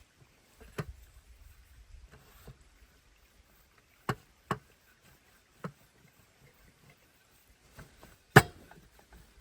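A handful of sharp, irregularly spaced knocks and clicks, about six, the loudest near the end, over a faint low rumble.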